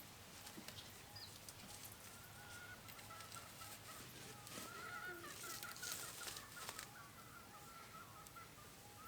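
Poultry calling faintly, many short repeated calls overlapping, with a brief rustle about six seconds in.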